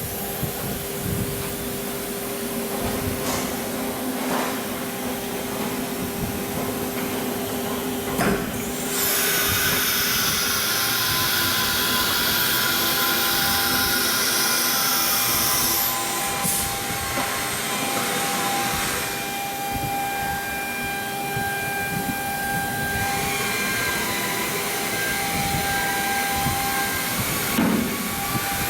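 CNC router with an automatic tool changer running, its spindle and drives giving a steady whine with several held tones. A sharp click comes about eight seconds in, then a loud hiss that lasts about seven seconds.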